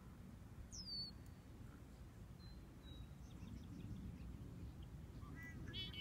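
Wild birds calling: a high whistle that falls in pitch about a second in, a few thin high notes in the middle, and a quick burst of chattering notes near the end, all faint over a low steady rumble.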